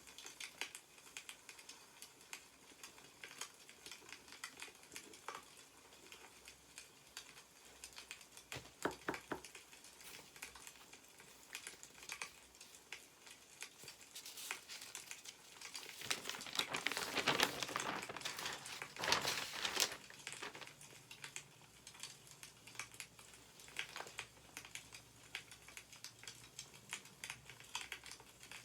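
Wood fire crackling with scattered small pops. Past the middle, newspaper pages rustle loudly for a few seconds as a page is turned.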